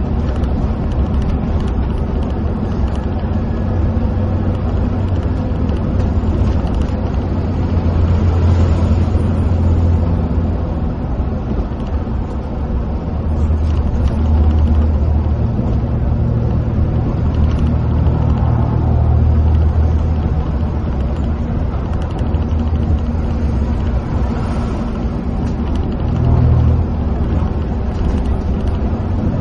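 Coach bus engine and tyre noise heard from inside the cabin at the driver's seat while driving along a highway: a steady low rumble that swells and eases a few times, with a short louder bump near the end.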